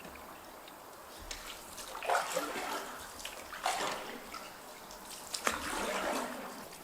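Canoe paddle strokes in river water: three splashes, each followed by dripping, over a faint trickle.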